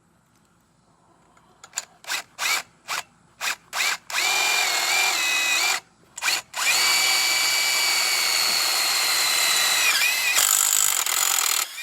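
Cordless power drill driving a screw to tighten it: a few short trigger blips, then longer runs of steady motor whine, the pitch dipping briefly under load about ten seconds in before it runs on.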